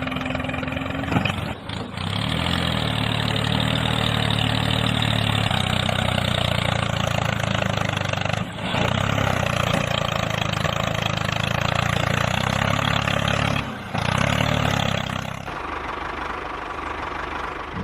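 Engine running steadily with a low hum, cutting out briefly a few times.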